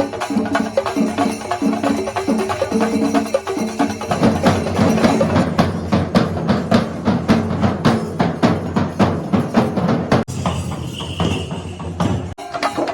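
Kerala temple percussion ensemble playing loudly: many drums struck in a fast, dense, steady rhythm with cymbals. The sound breaks off and changes abruptly twice near the end.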